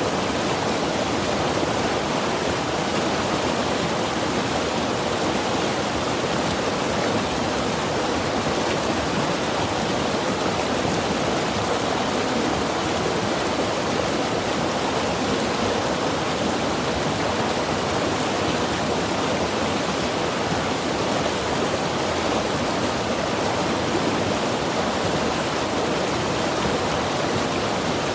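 Mountain river rushing over rocks, a steady, unbroken roar of water.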